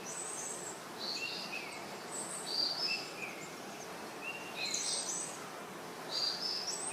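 Birds chirping in repeated short phrases of high notes over a steady outdoor hiss.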